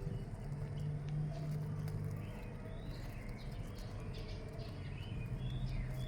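Birds chirping, short sweeping calls that pick up about two seconds in, over a steady low hum.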